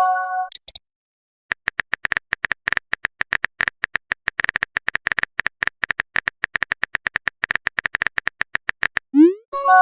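Rapid, irregular keyboard typing clicks, the typing sound effect of a chat-message animation. A short chime sounds at the start, and near the end a quick rising swoop and another chime mark a message being sent.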